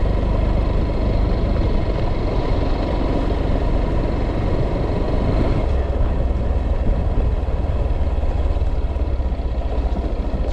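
A vehicle engine running steadily, its sound heavy in the low end.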